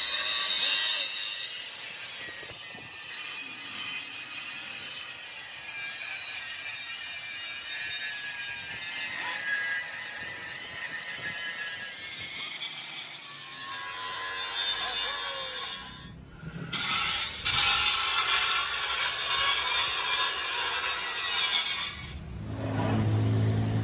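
Steady harsh cutting or grinding on metal during a bus axle repair, with two short breaks about sixteen and twenty-two seconds in. A low hum comes in near the end.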